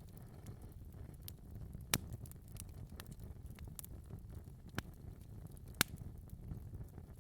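Wood fire burning in a fireplace: a steady low rumble of flame with scattered sharp crackles and pops, two louder pops about two seconds in and near six seconds.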